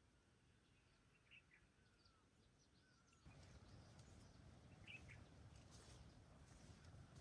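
Faint, scattered bird chirps over near silence. About three seconds in, a low steady noise comes up and continues beneath them.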